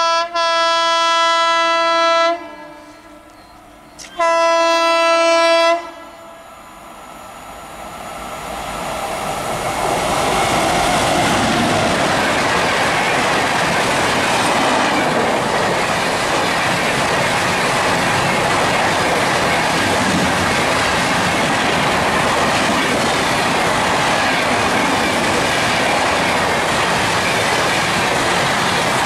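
Two long blasts of an electric locomotive's air horn, the first about two seconds, the second slightly shorter after a short pause. Then a passenger train passing at speed: a steady rushing noise that builds over a few seconds and carries on, with the wheels clicking over the rail joints.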